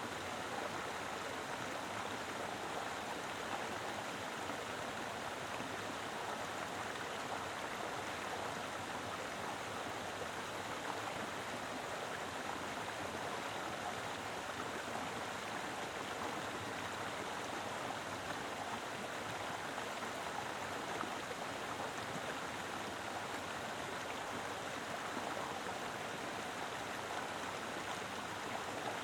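A mountain river running steadily, its flowing water making an even rushing noise with no breaks or changes.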